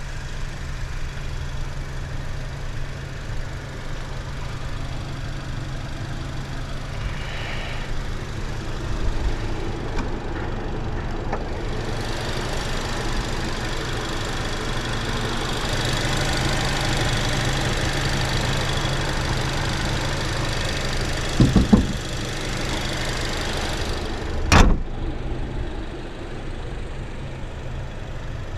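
Chery Tiggo 7 Pro's 1.6 turbo gasoline engine idling steadily, heard from the open engine bay. A hiss builds up midway, and about three-quarters through there are a few knocks followed by one sharp click.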